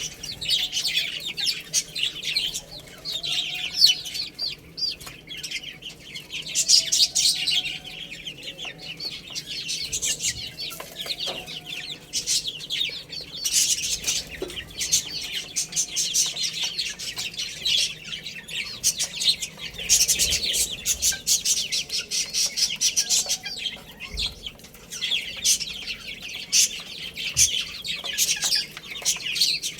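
Many baby chicks peeping rapidly and without pause, a dense high-pitched chirping, with a few fainter, lower calls now and then.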